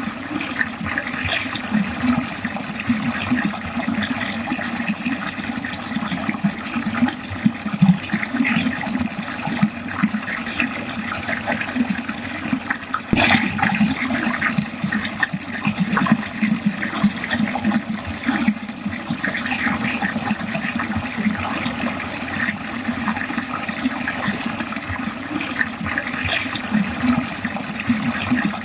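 Water running steadily down a drain, gurgling and splashing, with one brief louder splash about halfway through.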